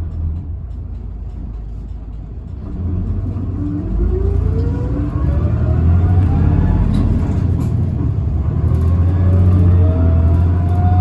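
Tokyu Bus H854's motor giving a whine that rises steadily in pitch as the bus accelerates, over a low engine rumble inside the cabin; this whine is the abnormal motor noise this bus is known for.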